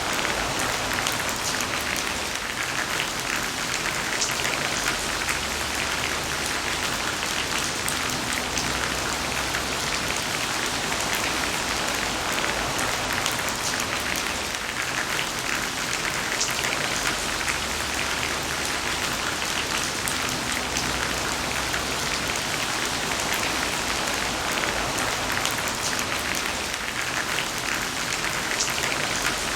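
Heavy rain falling steadily: a dense, even hiss of countless drops striking a surface, with no let-up.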